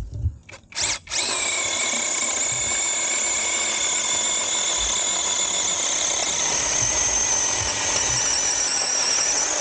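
SeeSii cordless battery-powered mini chainsaw running with a steady high whine as it cuts through a piece of wood. A brief blip of the trigger, then it runs on from about a second in, dipping slightly in pitch near the end.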